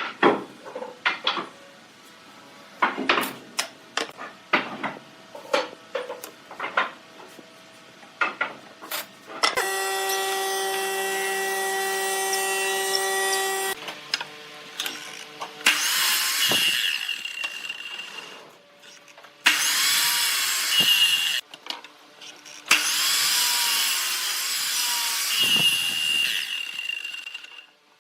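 Scattered knocks and clicks, then a power tool running several times for a few seconds at a go: one steady pitched run, then three rougher runs with a high whine in them.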